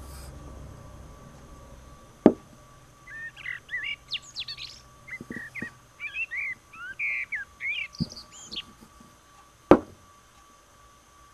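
Small birds chirping and twittering in a quick run of short, sliding calls for about five seconds. Three sharp knocks cut in, the loudest about two seconds in and near the end.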